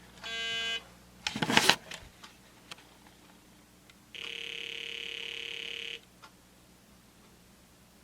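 Milton Bradley Simon electronic game sounding its buzzy electronic tone through its speaker: a short beep, then a steady tone of about two seconds. The game is responding after the driver chip's VSS pin 1 is bridged to +3 V. A brief loud burst of handling noise falls between the two tones.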